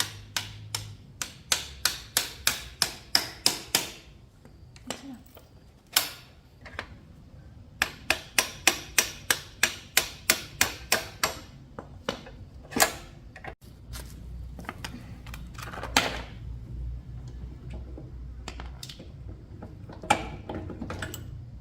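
Hand-tool work on a motorcycle: two runs of sharp metallic taps at about four a second, with a few single knocks in between.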